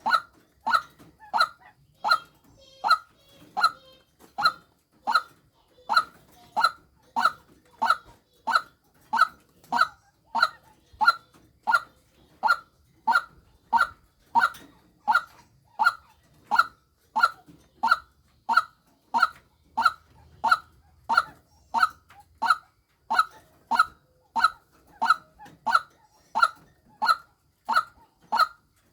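Female white-breasted waterhen's lure call: a single short, honking 'kwak' note repeated evenly, about three every two seconds.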